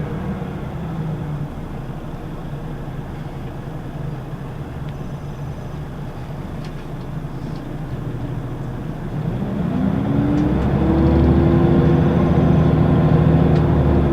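Scania L94UB bus's diesel engine heard from inside the cabin, through its ZF automatic gearbox. It runs low and quiet at first, then pulls away from about nine seconds in, its note rising and growing louder before holding steady near the end.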